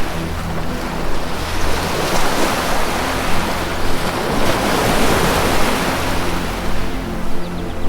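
Ocean waves surging and washing in, swelling and easing several times, over a soft sustained low music drone.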